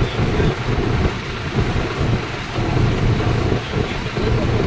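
Low, steady rumble of tractor engines running in a parade.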